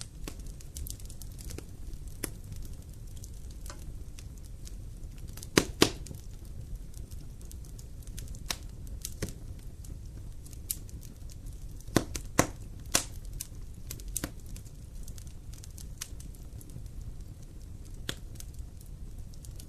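Wood campfire burning: sharp crackles and pops from the burning wood over a steady low rumble, with the loudest pops coming in clusters about six seconds in and again about twelve to thirteen seconds in.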